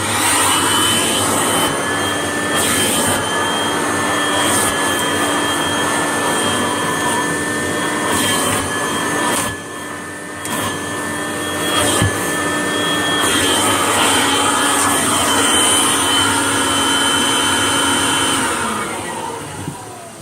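Vacuum cleaner switched on with a sudden start, its motor running steadily with a high whine as it cleans carpet, dipping briefly about halfway. It is switched off near the end, and the motor winds down with a falling pitch.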